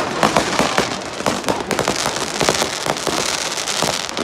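Fireworks going off: many sharp pops and bangs over a dense crackling hiss.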